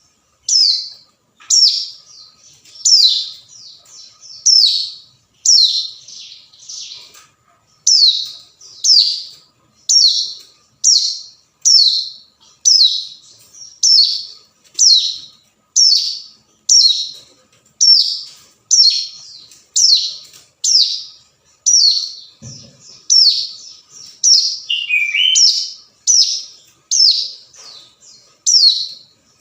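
Ciblek gunung (hill prinia) calling: a loud, sharp note falling in pitch, repeated about once a second, with a lower note mixed in about 25 seconds in.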